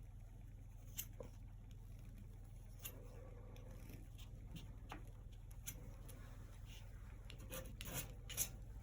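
Faint scratchy strokes and light taps of painting tools working acrylic paint on a canvas, coming more often near the end, over a steady low hum.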